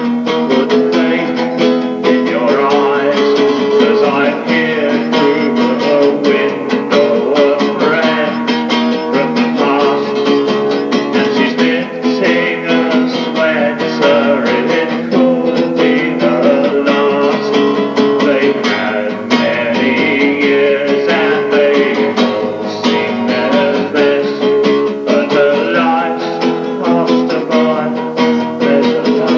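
Acoustic guitar strummed steadily in an instrumental passage of a song.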